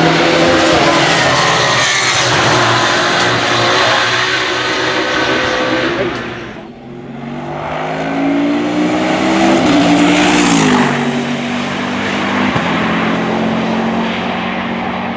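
Race car engines running hard at full throttle past the track. The sound dips about seven seconds in. Then an engine climbs steadily in pitch and falls sharply near eleven seconds.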